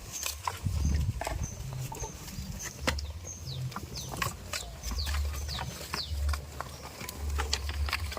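Farmyard ambience: small birds giving short high chirps and falling peeps over and over, with scattered clicks and knocks and a low rumble that comes and goes.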